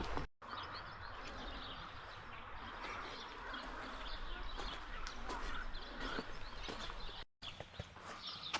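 Outdoor ambience full of birds chirping. The sound cuts out completely for a moment just after the start and again near the end.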